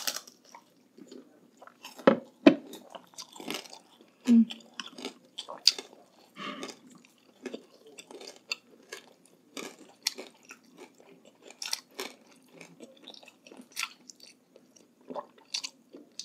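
Close-miked chewing with irregular crisp crunches, from bites of chicharon bagnet (deep-fried pork belly crackling); the loudest crunches come a little after two seconds in.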